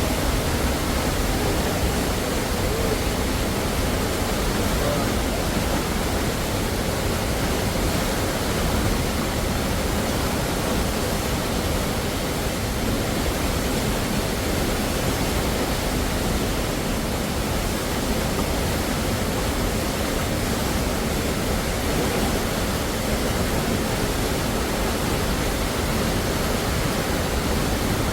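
Düden Waterfall rushing: a steady, unbroken roar of falling water.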